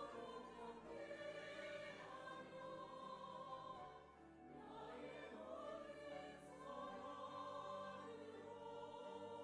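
Church choir singing a choral anthem in long, held chords, easing off briefly about four seconds in before the next phrase.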